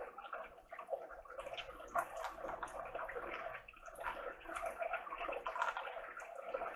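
Close-miked chewing of fried mini chicken-and-cheese tacos: wet mouth sounds with scattered small crackly crunches.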